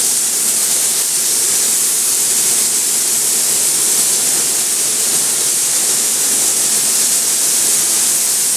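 Automotive paint spray gun hissing steadily as it sprays primer, a continuous high, airy hiss.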